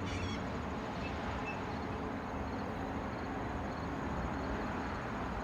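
Steady outdoor rumble and hiss with a few faint, short bird chirps from the gathered flock.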